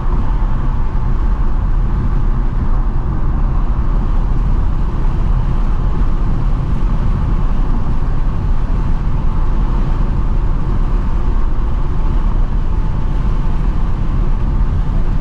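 Stock 2024 Ford Mustang GT cruising at a steady speed, heard from inside the cabin. Its 5.0-litre V8 gives a low, even drone mixed with road and wind noise, with no revving.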